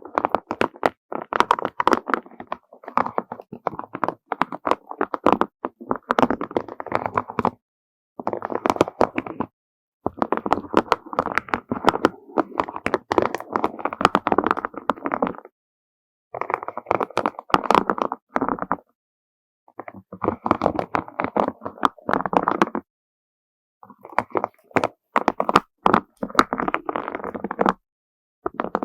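A hand stroking through a mass of beads, which clatter and click against each other in quick dense runs. Each pass lasts a few seconds, with about six short pauses in between.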